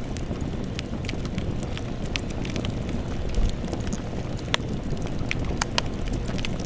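Wood campfire burning: a steady low rush of flames with frequent irregular sharp crackles and pops from the burning wood.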